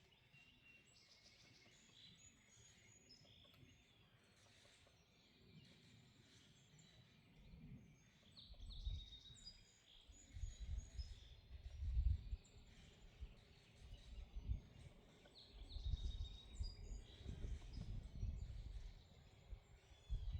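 Wild birds chirping and calling outdoors, with short high whistles and chirps throughout. From about eight seconds in, irregular low rumbling gusts come in and out and are the loudest sound.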